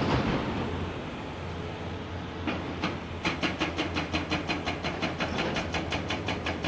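Excavator-mounted hydraulic breaker hammering rock over the steady running of a Komatsu PC490's engine: a couple of single blows about two and a half seconds in, then a rapid, even rhythm of about nine blows a second.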